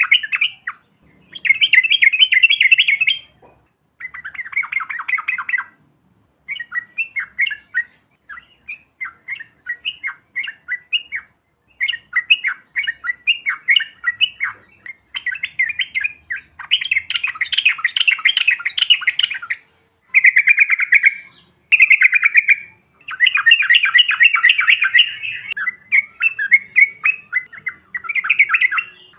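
Yellow-vented bulbuls (trucukan) singing: fast, bubbling chattering phrases in bursts of one to three seconds with short pauses between, rising to a dense, loud stretch in the second half.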